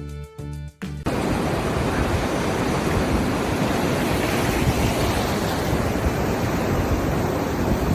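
Plucked-note music for about the first second, cut off suddenly by a loud, steady rushing noise that fills the rest.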